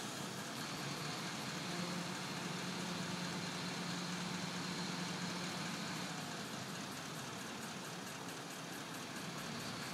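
Crane truck's engine running steadily, with a low hum that eases slightly about six seconds in.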